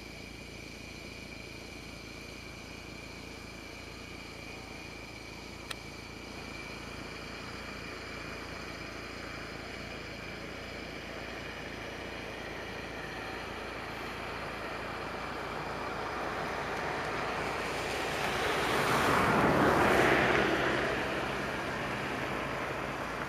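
A vehicle approaches and passes, growing louder to its loudest about twenty seconds in and then fading away. Under it, a steady background of insects chirping, and a single click about six seconds in.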